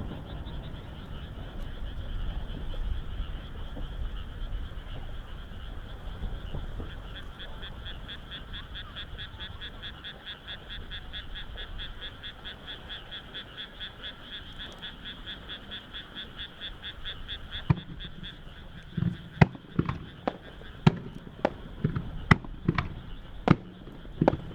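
Frogs calling in a rapid, evenly pulsing chorus of several pulses a second, which stops abruptly about 18 s in. A quick series of sharp firework bangs from a starmine follows and is the loudest sound.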